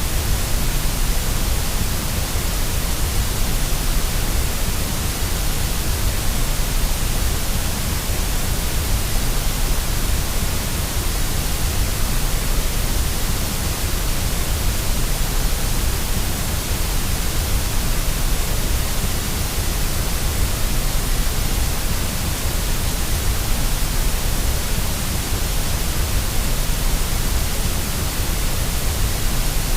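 Steady white noise for baby sleep: an even, unchanging hiss with a strong deep rumble underneath.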